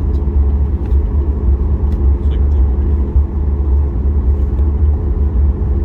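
Steady low rumble and hum heard from inside the passenger cabin of a Boeing 737 MAX 8 taxiing, its CFM LEAP-1B jet engines at idle thrust, with a few faint ticks.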